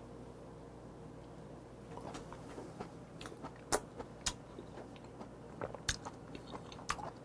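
Close-miked chewing of raw stone sea squirt soaked in soju: wet mouth sounds starting about two seconds in, with scattered sharp clicks, a few of them louder.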